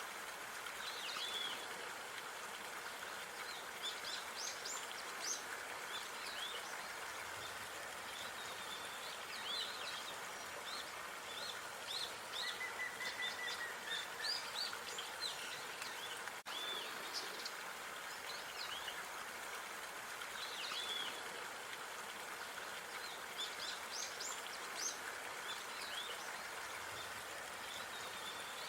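Outdoor park ambience: many small birds chirping and twittering in short scattered calls over a steady background hiss.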